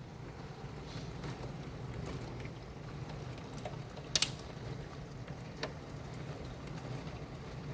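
Steady downpour of a hail storm with a low rumble underneath, and a few sharp ticks of stones or drops striking, the loudest about four seconds in.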